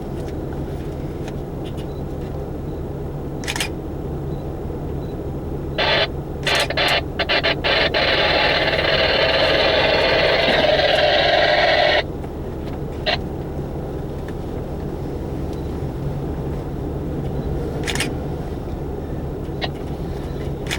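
Scanner radio breaking squelch: a few stuttering crackles about six seconds in, then about four seconds of steady static that cuts off abruptly. A steady low hum runs underneath, with a few scattered clicks.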